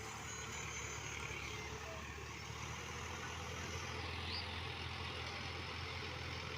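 Sonalika DI-50 RX tractor's diesel engine running steadily at constant speed.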